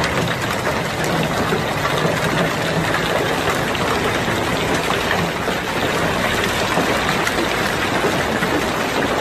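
Heavy downpour during a hailstorm: a steady, dense hiss of falling precipitation with faint scattered ticks of hits.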